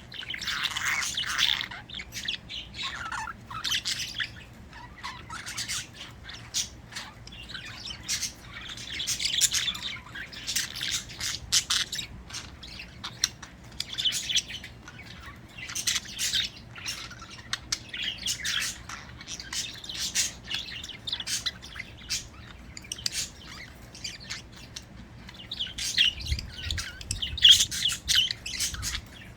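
A flock of pet budgerigars chirping and chattering, a dense run of quick, high chirps that swells and dips in bursts every second or two.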